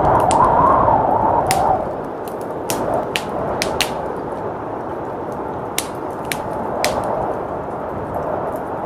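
Wood fire crackling, with a dozen or so sharp pops and snaps scattered irregularly, over a steady rush of blizzard wind that swells louder for the first couple of seconds and then settles.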